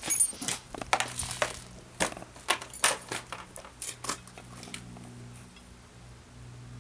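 Sharp metallic clicks and clatter, like small metal objects being handled, for about four seconds, then a steady low hum.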